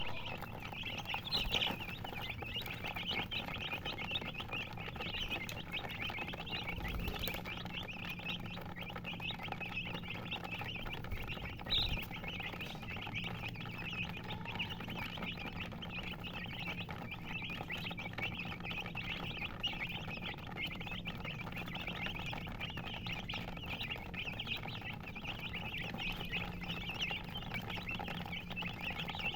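A group of chicks peeping and chirping continuously, many short high calls overlapping, with a couple of brief knocks.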